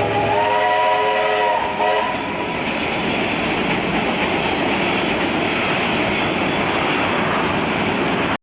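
A train's whistle sounds a chord of several notes, rising slightly as it opens and stopping about two seconds in, over the steady rumble and rail noise of a train running past.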